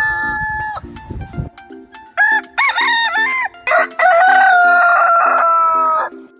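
Rooster crowing: the end of one crow, then a second crow beginning about two seconds in that finishes on a long held, slightly falling note.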